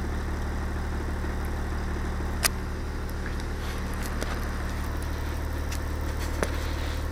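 School bus diesel engine idling, a steady low drone, with a sharp click about two and a half seconds in and a fainter one near the end.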